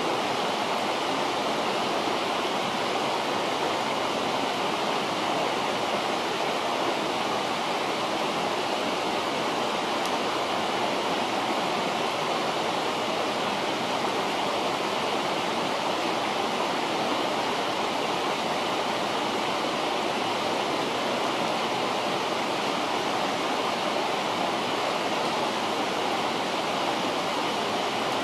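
A river flowing steadily, a constant rush of water.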